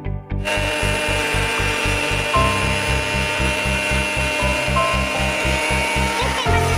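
Pressure washer starting up about half a second in and running steadily with a whine and a hiss, over background music with a steady beat.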